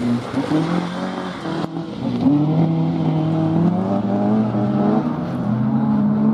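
Rally car engine revving hard on a stage, its pitch climbing and dropping several times as it shifts gears and lifts off.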